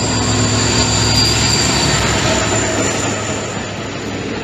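An electric train passing at speed: a loud, steady rush of noise with a thin high whine over it, easing a little toward the end.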